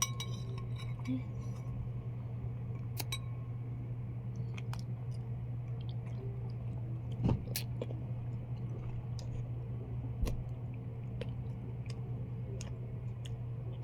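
People eating balot: quiet chewing and scattered small clicks of eggshell and utensils over a steady low hum, with a couple of louder knocks about seven and ten seconds in.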